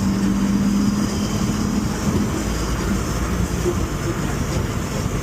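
Honda car driving on a wet road: steady tyre and road noise with a low rumble underneath. A steady low hum sits over it for the first two and a half seconds or so.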